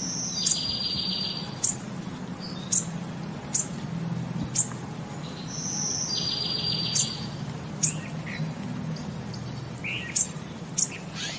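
Small bird chirping: sharp, high-pitched chirps about once a second, with a short buzzy trill twice, about six seconds apart, over a low steady hum.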